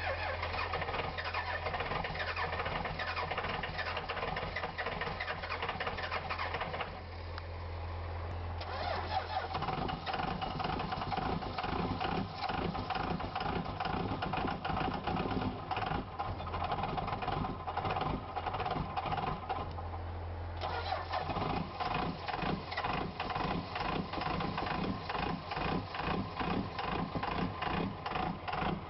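Diesel truck engine starting from cold and running with a rapid, even knocking clatter. The sound changes about 10 seconds in and again about 21 seconds in.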